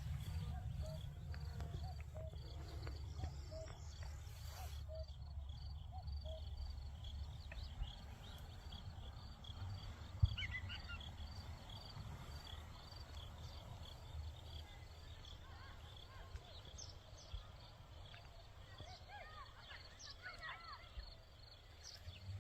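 Outdoor spring ambience: a steady insect chirp repeating fast and evenly, high-pitched, over a low rumble, with a few short bird calls in the second half and a single knock about ten seconds in.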